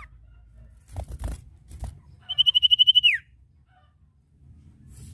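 Sirtu songbird singing a rapid trilled whistle of about a dozen quick notes on one pitch, ending in a downward glide. A few soft knocks come just before it.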